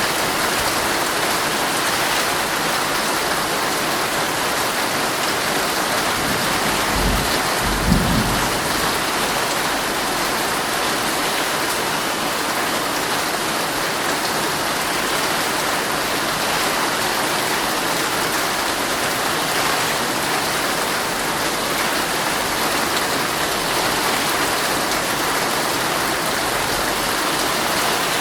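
Heavy rain falling steadily on a tent. About seven seconds in comes a brief low rumble of thunder.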